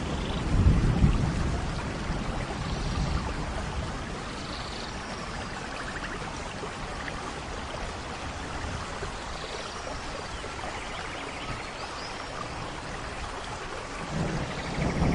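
Steady rain with low rolls of thunder, one about a second in and another building near the end.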